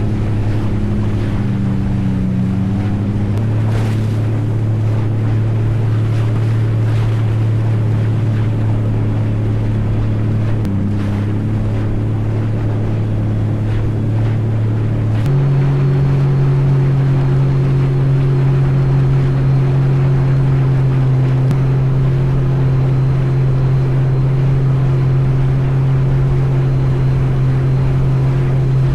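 An engine running steadily: a loud, low drone that steps up slightly in pitch about halfway through and then holds, over a rushing noise.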